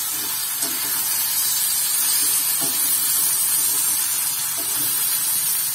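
Raw banana slices sizzling steadily in hot oil in a kadai, with a spatula stirring them a few times.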